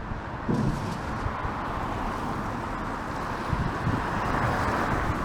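Vehicle traffic on a wet road: a steady tyre hiss that comes in about half a second in, over a low rumble of wind on the microphone.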